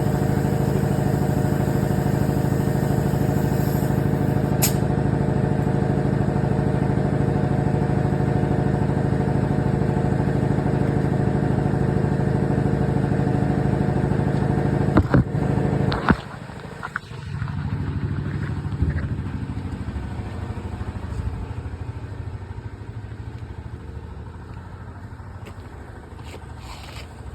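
A motor running steadily with a deep, even hum stops abruptly about sixteen seconds in, just after a few sharp clicks; a lower hum then slowly fades away.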